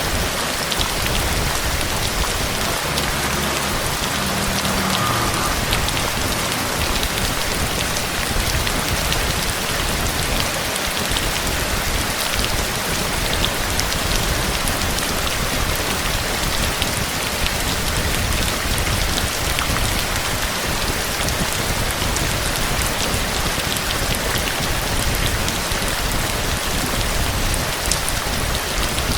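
Steady heavy rain: a dense, even hiss of falling water, speckled with many small drop ticks.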